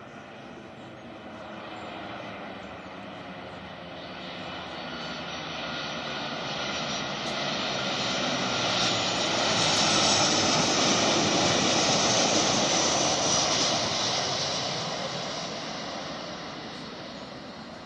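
An airliner's engines pass close by, growing steadily louder to a peak about ten seconds in, then fading away.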